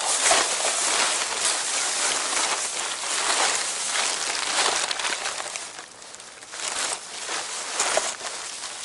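Trash being rummaged through: plastic bags and loose items rustling, crinkling and shifting in irregular bursts.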